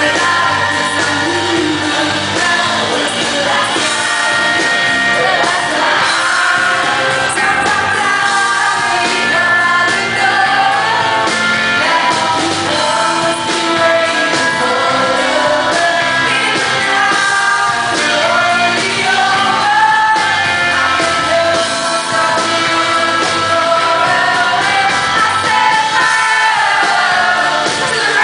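Live pop ballad performance: a woman's lead vocal sung over a full band, with the melody rising and falling in long held phrases.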